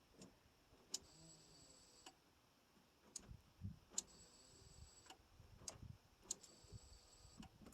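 Near silence with faint scattered clicks and soft knocks, and a faint high steady tone that comes three times for about a second each.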